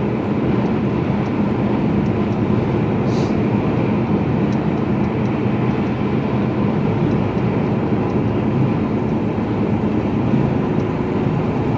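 Steady in-cab running noise of a Mercedes-Benz Actros HGV tractor unit on the move: the diesel engine's drone blended with tyre and wind noise, even throughout.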